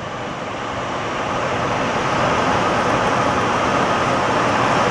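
Rushing airflow noise inside the cockpit of a DG1000 glider in flight, with no engine. It grows louder over the first couple of seconds, then holds steady.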